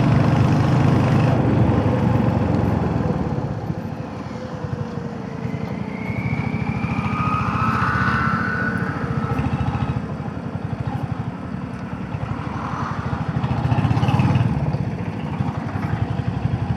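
Royal Enfield Hunter 350's single-cylinder engine running under way. Its loudness eases down and builds back up a few times. A brief higher-pitched tone sounds about halfway through.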